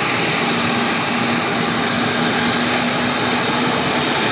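Airliner engines running loud and steady: an even rushing noise with a faint steady hum underneath.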